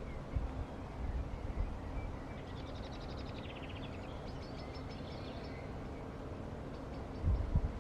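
A small bird singing a rapid trill about two and a half seconds in, with a few faint chirps, over a low outdoor rumble; a dull low bump near the end.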